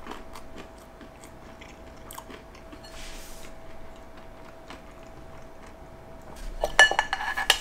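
A person chewing a mouthful of French toast, with faint mouth clicks. Near the end comes a louder sound with a ringing, pitched edge.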